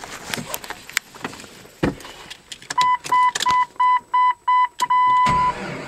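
A few clicks, then rapid electronic warning beeps, about four a second, ending in a longer tone. Near the end the 2001 Jeep Cherokee's 4.0-litre straight-six fires up on a cold start at −17°F.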